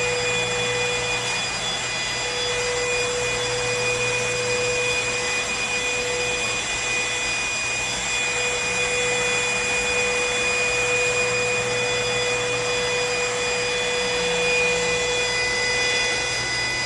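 Cordless stick vacuum running steadily: a constant motor whine over the rush of air.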